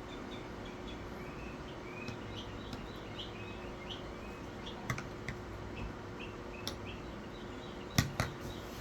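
Steady low background hum with faint short chirps, like small birds, through the first part. A few sharp clicks come later, the loudest two close together about eight seconds in.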